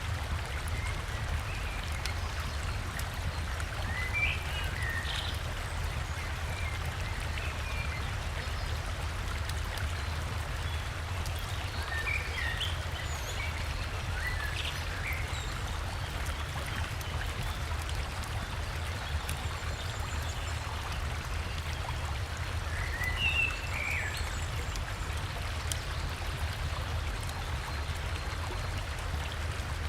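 River water flowing steadily with a low rumble, and forest birds giving short chirps and trills that break in three times: about four seconds in, around the middle, and again after twenty-three seconds.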